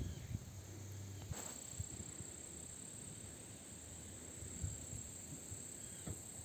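Faint wind gusting against the microphone, low and uneven, under a steady high hiss, with one brief click about a second and a half in.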